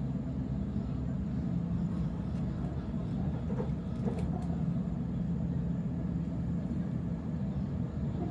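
Steady low rumble of a Waratah B-set electric train in motion, heard from inside the carriage, with a continuous hum. A few faint clicks come about halfway through.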